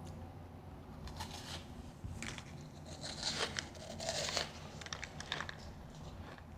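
Refrozen powdery ice being bitten and crunched: a run of crackling crunches from about a second in to past five seconds, over a low steady hum.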